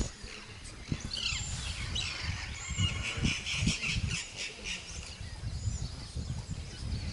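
Several birds chirping and calling at once, busiest from about a second in to the middle, with a steady low rumble underneath.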